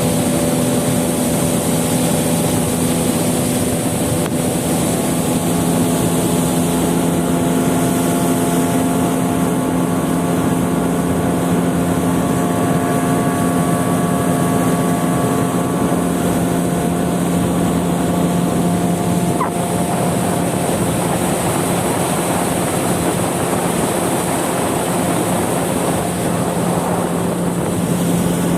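Boat outboard motor running at a steady speed, a constant engine drone with water and wind noise.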